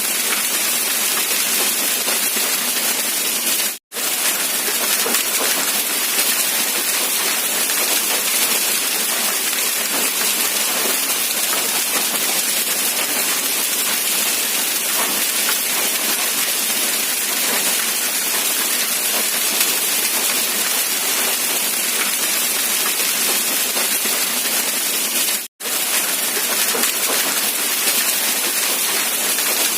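Steady rain hissing, an even wash of drops with no low rumble. The sound drops out to silence for a split second twice, a few seconds in and about three quarters of the way through.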